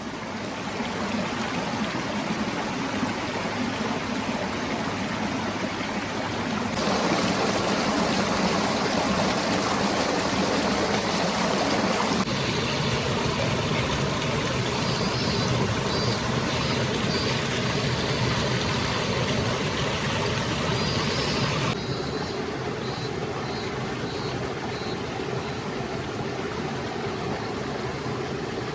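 Mountain stream rushing steadily, stepping louder about seven seconds in and quieter about two-thirds of the way through. Faint high chirps come twice, in the middle and near the end.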